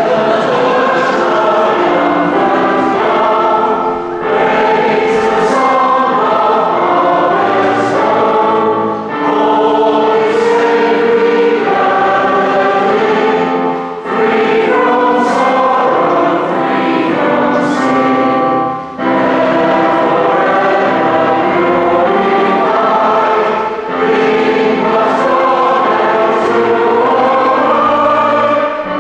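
A hymn sung by many voices together, in phrases separated by short breaths about every five seconds.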